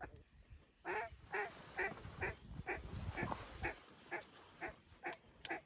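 A run of about ten evenly spaced duck quacks, roughly two a second, each with a short bend in pitch. A single sharp crack comes just before the end.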